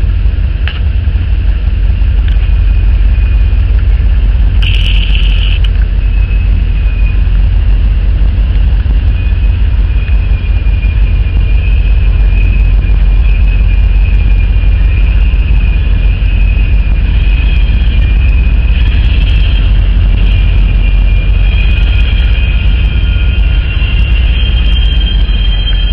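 Freight train rolling through a rail junction: a loud, steady low rumble of locomotives and cars on the rails. High-pitched wheel squeal comes and goes, strongest in the second half.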